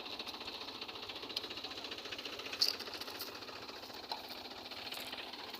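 Mahindra tractor's diesel engine running with a fast, even clatter, fairly faint. A single sharp click about two and a half seconds in.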